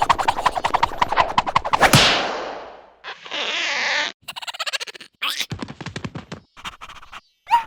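Cartoon slapstick sound effects: a fast rattle of sharp taps ending in a loud crash that dies away, then a short hiss and a scatter of quick clicks.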